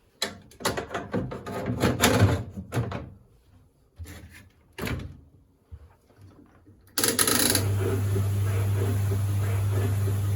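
A run of clicks and knocks as the dryer is handled, then about seven seconds in the White Knight C38AW compact tumble dryer starts and runs empty with a steady low hum and drum noise. Its running is "a bit ropey", though the owner is not sure whether that is how these machines normally sound.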